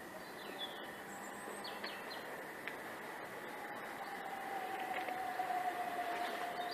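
A train approaching, heard as a faint, slowly falling whine that grows louder through the second half, with birds chirping briefly near the start.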